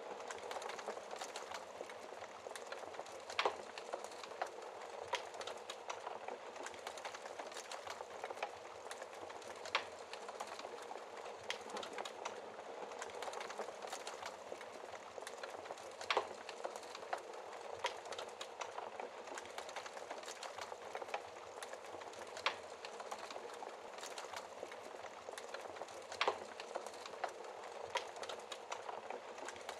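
Wood fire crackling in a fireplace: a steady hiss with many small irregular crackles and a louder pop every few seconds.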